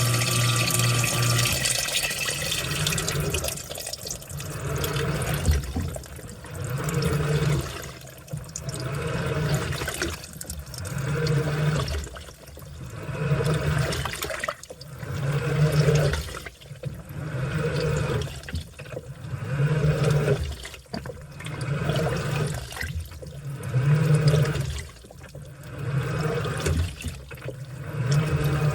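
Washing machine on its wash cycle: the motor turns the load in a surge about every two seconds, with water sloshing at each turn. A steady hum with rushing water stops about a second and a half in.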